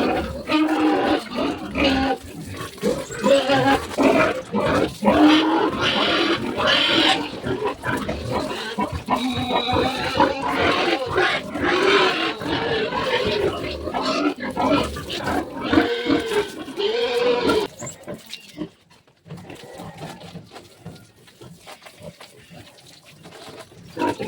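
Pigs squealing: loud, overlapping calls that run on for about eighteen seconds, then die down to a few quieter sounds.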